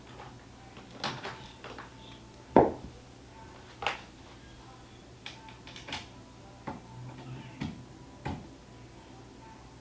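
Scattered knocks and clicks of objects being handled in a small room, about seven or eight in all, the loudest a single thump about two and a half seconds in, over a faint steady hum.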